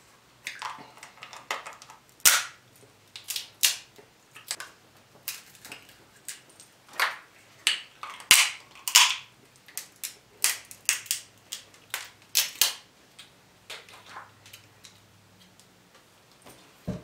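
Close-miked eating sounds: wet chewing and lip smacks heard as irregular sharp clicks, a few each second.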